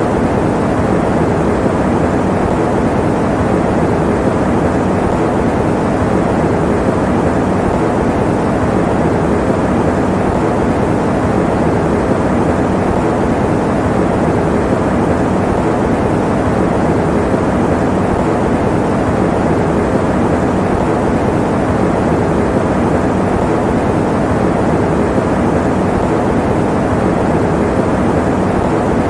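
Electric fan running steadily: an even, unbroken whooshing noise, mostly low and middle in pitch, used as white noise for sleep.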